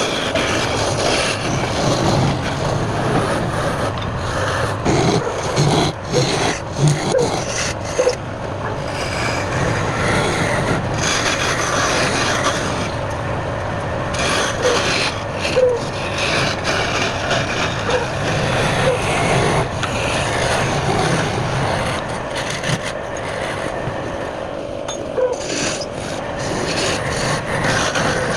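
Wood turning on a lathe while a tool or abrasive is worked against it: a steady rasping and scraping that varies in strength, with a few short squeaks.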